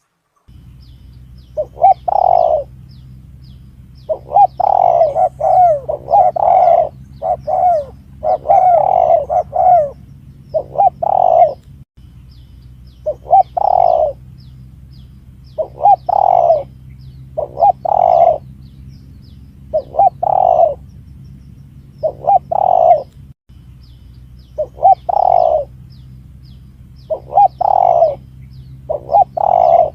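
Spotted dove (tekukur) cooing, its call phrases repeated every second or two, over a steady low hum.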